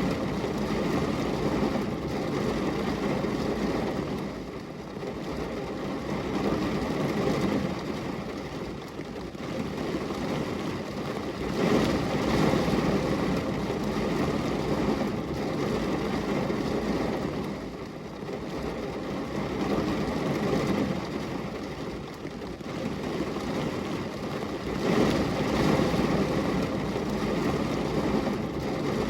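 Steady rain on a glass window: an even rushing noise, heaviest low down, that swells and eases about every six seconds.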